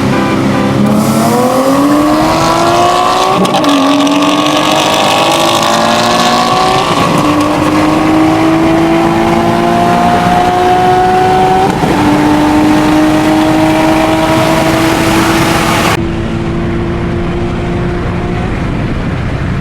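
Car engine at full throttle, accelerating hard. Its pitch climbs through each gear, with three upshifts where the revs fall back before climbing again.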